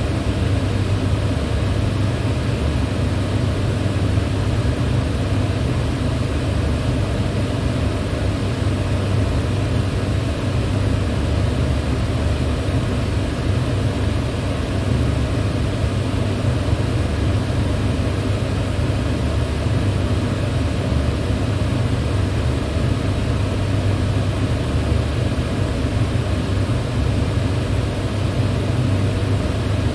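Electric fan running steadily: a continuous low hum with an even rush of moving air, unchanging throughout.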